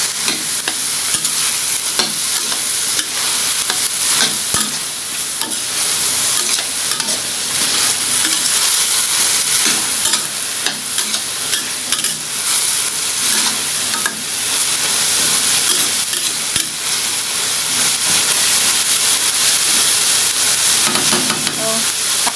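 Ground meat and diced vegetables sizzling in a stainless steel wok while a spatula stirs and scrapes through them, with scattered clicks of the spatula against the metal pan.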